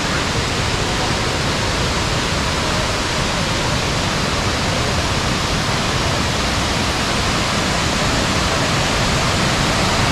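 Torc Waterfall's falling water rushing, a loud, steady roar of noise.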